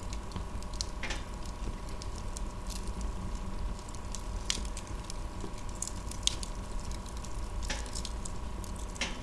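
Wood fire burning in a fireplace: a steady low rumble and hiss with a handful of sharp crackles and pops scattered through.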